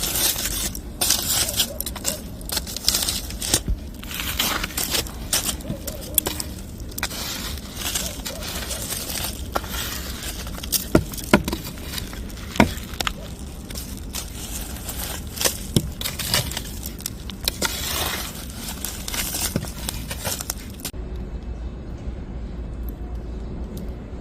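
Wood fire crackling, with dense irregular pops and a few louder snaps about halfway through. The sound changes near the end and turns duller.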